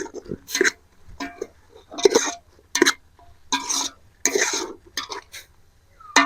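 A metal spoon scraping and clinking against a pot while stirring, in a dozen or so irregular strokes, with a sharper clank near the end.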